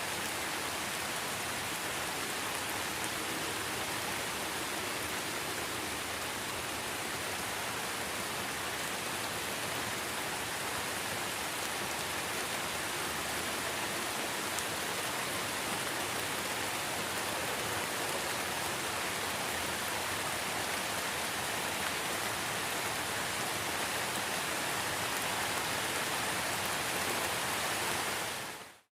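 Steady rain falling, an even hiss without drops standing out, which fades out quickly near the end.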